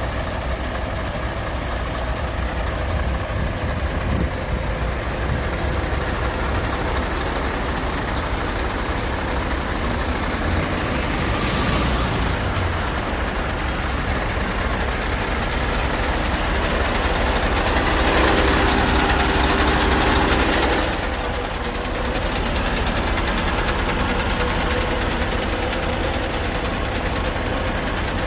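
Scania R580 truck's 16-litre V8 diesel idling steadily with a deep rumble. About two-thirds of the way through, a louder rushing noise rises over it for about three seconds, then stops abruptly.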